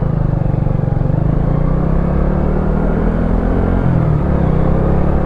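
Wolf Classic 125cc motorcycle engine running under way, its pitch climbing steadily, then dropping and climbing again about four seconds in as a gear changes.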